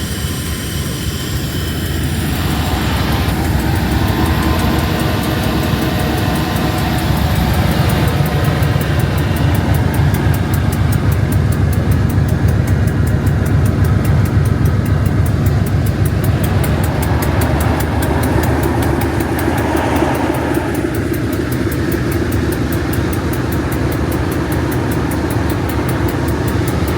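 Heritage diesel train running, with a steady engine and running noise that builds up, holds, then eases a little toward the end.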